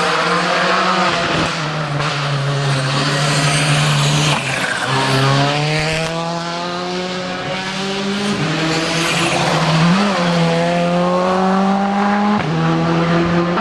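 Rally car engine driven hard on a stage, its pitch climbing as it accelerates and dropping sharply at each gear change, several times over. About ten seconds in there is a short blip of revs.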